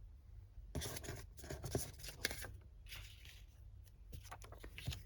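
Paper scraps being handled and rustled, in short irregular bursts with a few soft taps.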